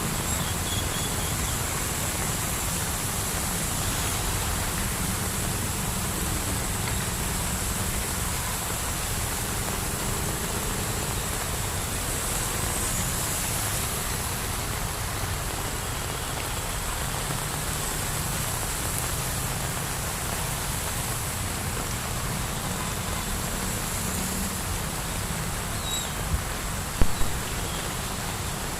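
Heavy rain with strong wind: a steady hiss with a low rumble underneath. A couple of sharp knocks come near the end.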